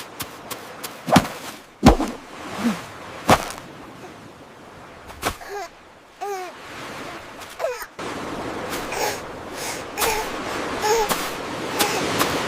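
Cartoon sound effects: several sharp hits, then a few short high vocal cries like a baby babbling or whimpering. From about eight seconds in, a steady hiss-like background rises under the voice sounds.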